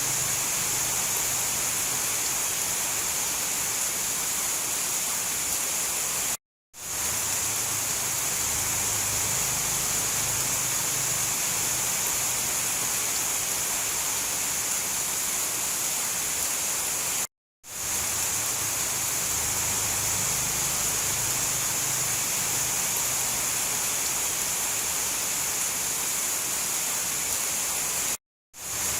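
Steady heavy rain, an even hiss, that cuts out completely for a split second about every eleven seconds, three times, then fades straight back in: a short rain recording looped with gaps.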